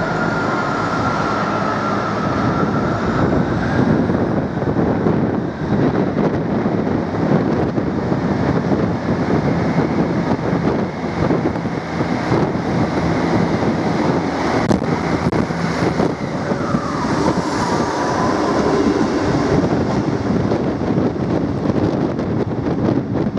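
Class 158 diesel multiple unit pulling away, its diesel engines running under power along with wheel and rail noise, with wind buffeting the microphone. A whining tone falls in pitch about two thirds of the way through.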